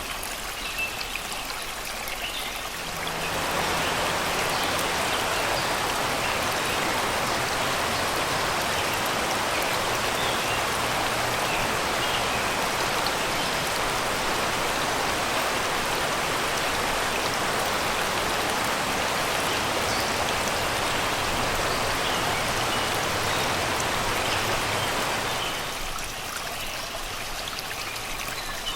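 Shallow river water rushing over rocks: a steady rush that swells louder and fuller about three seconds in and drops back near the end. Faint birdsong chirps over it.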